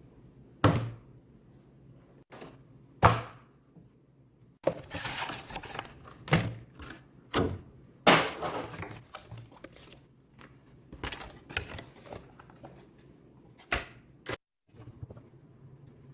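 Irregular clicks, taps and knocks with scraping between them, from hand work on brake lines and their heat shielding sleeve. The sharpest knocks come about 3 s and 8 s in, and the sound drops out completely for a moment twice.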